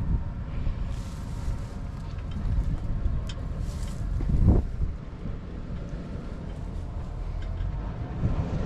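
Old Ford F700 dump truck's engine running with a steady low rumble as the truck creeps along, with a few brief hisses and scrapes about one, three and a half, and four and a half seconds in.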